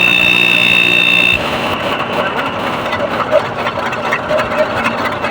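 A motor running with a steady high whine over a low hum, which cuts off abruptly about a second and a half in, leaving a quieter, uneven background noise.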